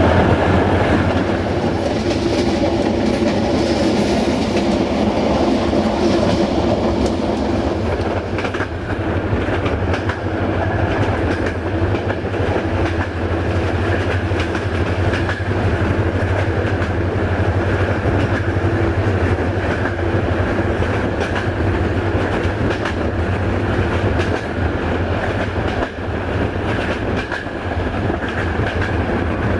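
Express passenger train running at speed, heard from an open coach doorway: a steady rumble of wheels on the track, with rhythmic clickety-clack over the rail joints.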